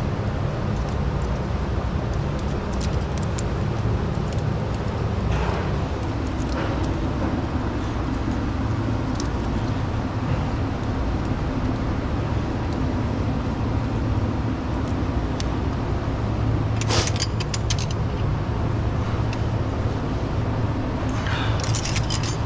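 Hand tools working on a truck engine's valve train: metallic clinks of a wrench and socket on the rocker-arm adjusters, busiest about three-quarters of the way through and again near the end, over a steady low rumble.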